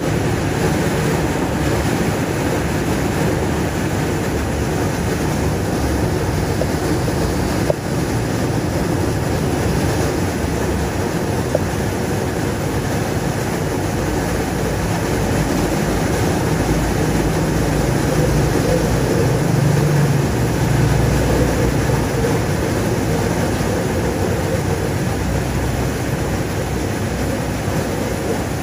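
Heavy rain pouring down onto a wet paved street, a loud steady hiss. A little past halfway a passing motor vehicle's engine and tyres on the wet road swell under the rain for a few seconds.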